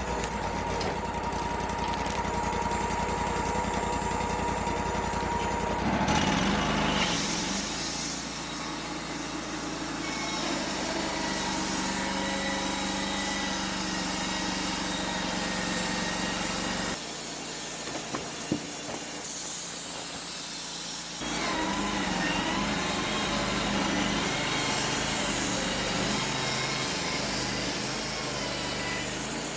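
Wood-Mizer LT-35 portable bandsaw sawmill running, its engine driving the band blade through a log. The sound changes abruptly several times, dropping to a thinner tone for a few seconds about two-thirds of the way in.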